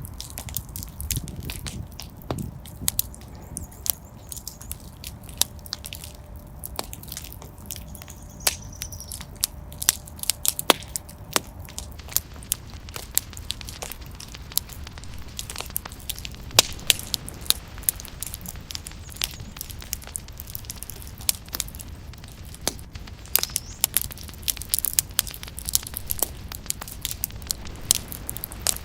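Fire burning in a fireplace, crackling with many irregular sharp pops over a low steady rumble of the flames.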